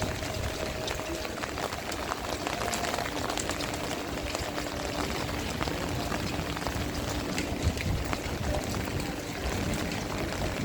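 Heavy rain falling, with a dense stream of small drop impacts close by. A low, uneven rumble of wind blows on the microphone.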